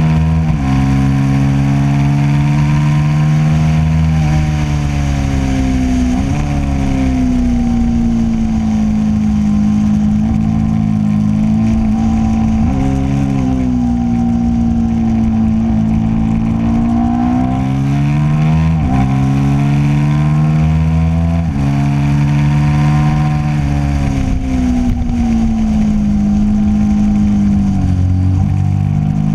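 Motorcycle engine heard from an on-board camera at track speed, its pitch climbing and dropping over and over with sudden jumps as the rider works the throttle and changes gear through the corners, over a steady rush of wind.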